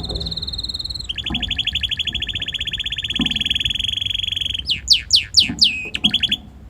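Red canary singing: a high rolling trill, then a lower, fast trill of rapidly repeated notes lasting about three and a half seconds, then a few loud notes sweeping down in pitch and a short last trill before the song stops near the end.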